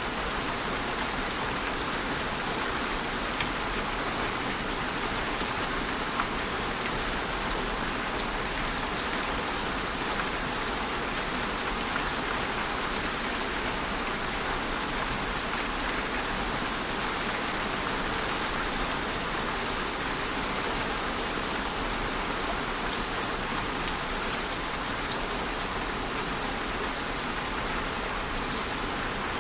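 Steady rainfall pattering on a surface, a dense even hiss with a few individual drops ticking out now and then.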